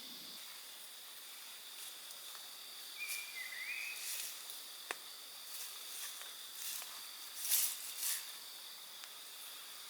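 Cicadas droning steadily on two high pitches in a forest. About three seconds in a bird gives a short whistled note that dips and comes back up, and several short, sharp crackling noises and a click come between about three and eight seconds in.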